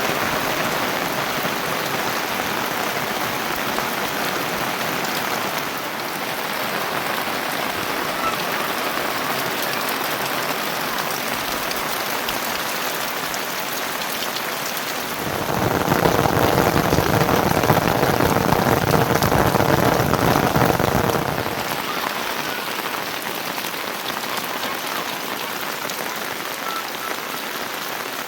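Heavy monsoon rain falling steadily, a dense hiss of drops. For about six seconds midway it grows louder and fuller before easing back.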